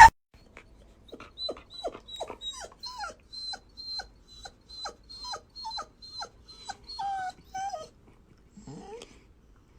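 A dog whining in a rapid run of short cries, each falling in pitch, about two a second. Near the end comes one rising whine.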